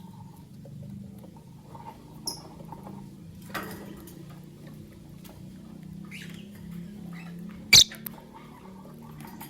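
Lovebirds making a few short, high chirps and squeaks, with scattered sharp clicks and taps, the loudest a single crack near the end, over a steady low hum.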